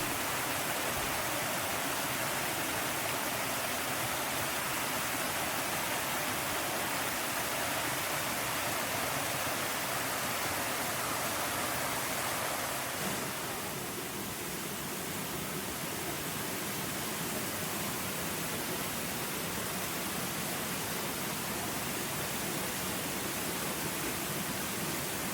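Waterfall's falling water rushing steadily, with a slight change in tone and a small drop in loudness about halfway through.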